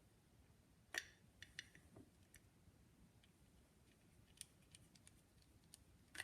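Mostly near silence, broken by faint, scattered small clicks and ticks of little screws and a screwdriver being worked on a phonograph reproducer, the sharpest click about a second in.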